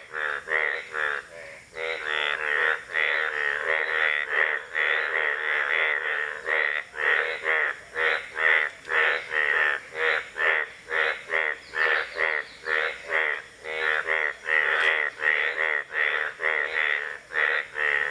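Indian bullfrogs calling in a long, unbroken run of short croaks, about two to three a second.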